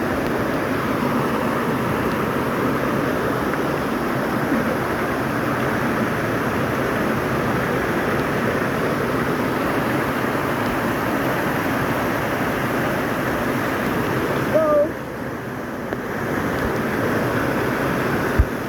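Steady rushing of a waterfall's falling water, an even wash of noise that briefly drops away about fifteen seconds in.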